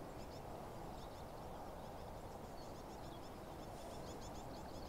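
Small birds singing faintly: a run of quick, high chirps and twitters over a steady low background hiss of open outdoor air.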